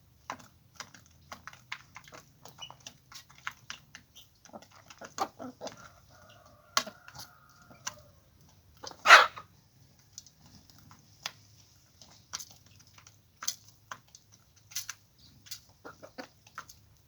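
Chickens clucking softly amid many scattered short clicks and taps, with one loud, sharp sound about nine seconds in.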